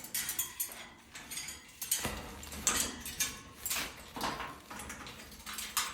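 Blue-and-gold macaw clambering on a metal cage, its beak and claws clicking and rattling against the bars in an irregular series.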